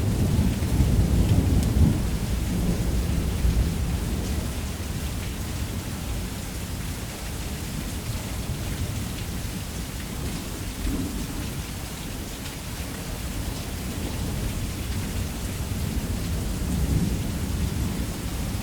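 Heavy rain falling steadily with a long, low thunder rumble that is loudest in the first few seconds, dies down, then swells slightly near the end.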